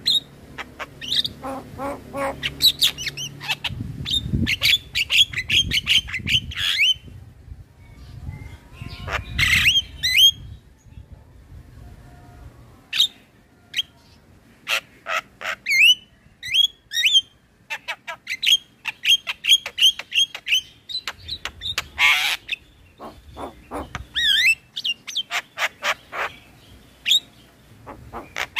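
Male Javan myna singing a long, varied song: rapid runs of short repeated notes, broken by a few noisy grating calls.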